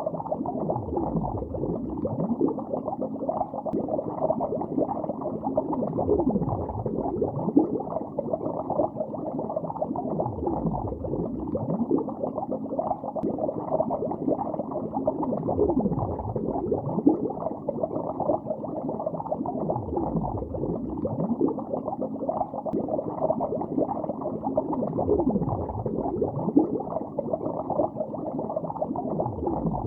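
Continuous underwater bubbling heard through water, a dense muffled stream of gurgles. Bubbles keep rising, and every few seconds deeper bubbles gurgle down in pitch.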